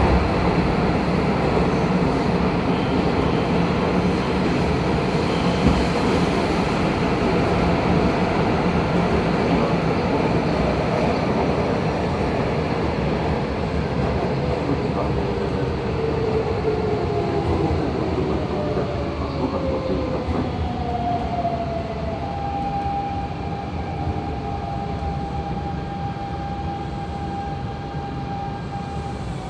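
Hanshin 5500 series train with Mitsubishi GTO-VVVF traction gear running underground, its rumble easing as it slows. Past the midpoint the inverter and motor whine falls in pitch in several tones, then holds on one steady tone to the end.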